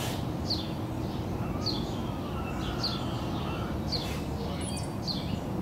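A songbird repeating a short, downward-sliding chirp about once a second, over a steady low background rumble.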